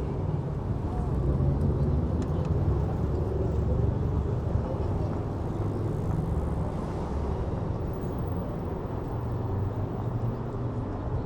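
Steady low rumble of wind on a handlebar-mounted camera's microphone, mixed with road traffic noise, while riding an electric hire bike.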